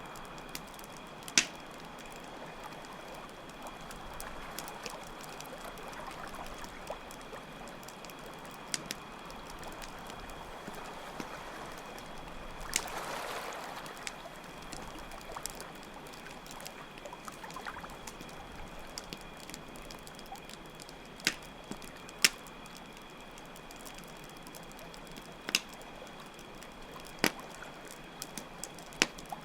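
Nature ambience: steady trickling water with crickets trilling continuously, and a wood campfire giving occasional sharp pops and crackles. A brief swell of rushing sound comes about halfway through.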